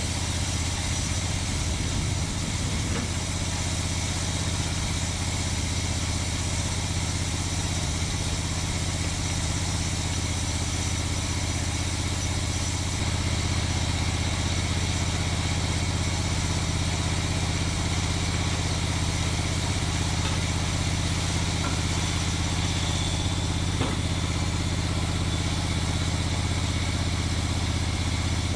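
Engine of a Norwood Lumbermate Mark IV sawmill head running steadily at constant speed, a little louder from about halfway through.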